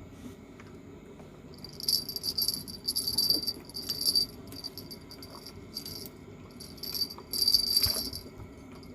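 Fishing reel ratcheting in irregular bursts over several seconds, typical of a hooked fish pulling line off the drag.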